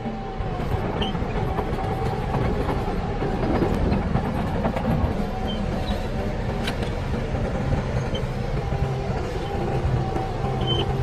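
Heavy construction machine's diesel engine running steadily under working load, with faint scattered ticks and clanks.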